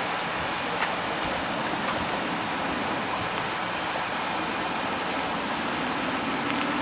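Steady rushing noise of storm wind and rain, with a faint click about a second in.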